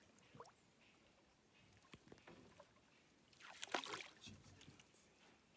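Mostly near silence, broken about three and a half seconds in by a brief splash and slosh of water at a small boat.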